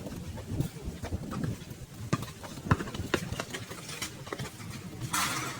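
Basketball game in play on a court: scattered, irregular knocks of the ball bouncing and players' footsteps, with a short burst of hiss about five seconds in.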